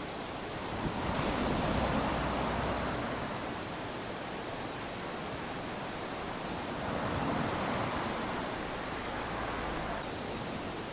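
Small ocean waves lapping onto a sandy beach, a continuous wash of surf that swells gently about a second in and again around seven seconds in.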